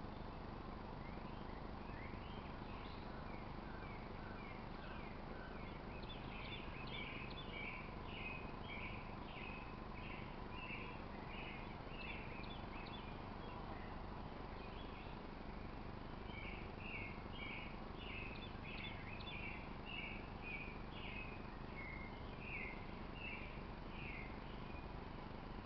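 Outdoor ambience with a bird chirping: short high notes repeated several times a second in two long runs, over a steady background hiss.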